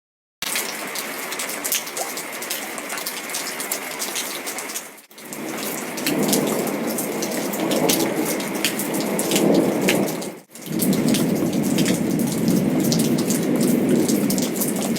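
Heavy rain, a dense pattering rush of drops, starting suddenly. It cuts out briefly twice, about five and ten and a half seconds in, and grows louder and deeper through the second half.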